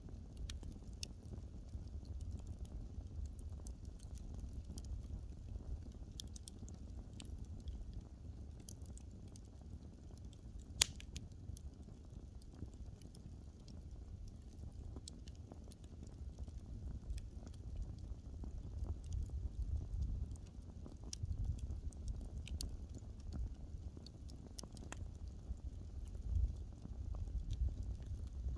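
Wood fire crackling: scattered sharp pops and snaps, one louder snap about eleven seconds in, over a low steady rumble.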